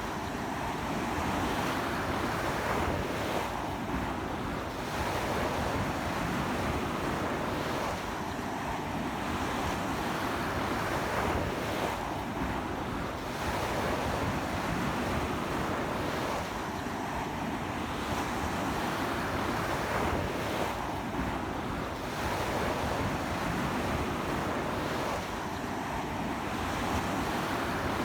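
Ocean surf, strong waves breaking and washing onto the shore in a continuous rush that swells and eases about every four seconds, with sea wind buffeting the microphone.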